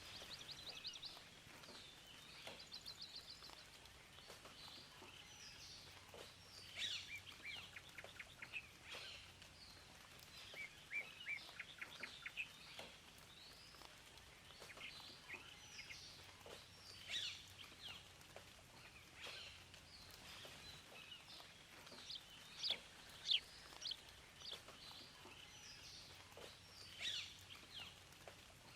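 Several songbirds chirping and singing, with quick trills of rapidly repeated notes, over a faint steady hiss.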